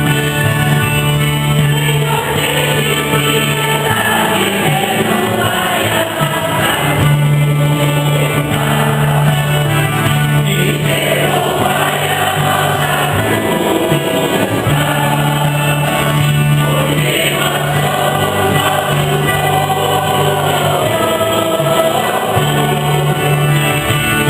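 A church singing group sings a Mass hymn in chorus, over instrumental accompaniment with sustained low bass notes that change every few seconds.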